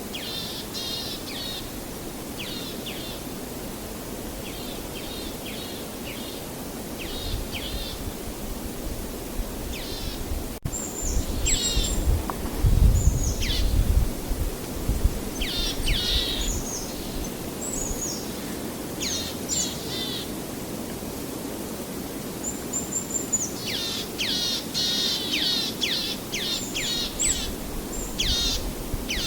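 Songbirds chirping and calling in quick runs of short falling notes, over a steady background hiss. A low rumble swells for a few seconds in the middle.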